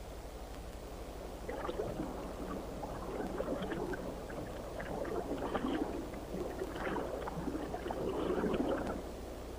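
Irregular splashing and sloshing of water, starting about a second and a half in and stopping near the end.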